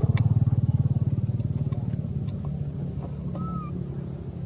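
A motor vehicle's engine running with a fast, even pulse, loudest at first and fading away. A short high chirp sounds near the end.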